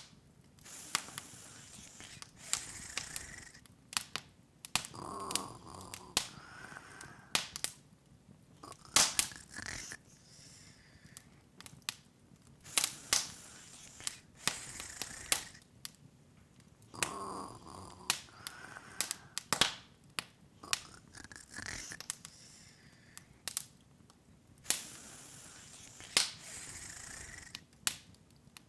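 Open wood fire crackling: irregular sharp pops and snaps, a few much louder than the rest, over a soft hiss.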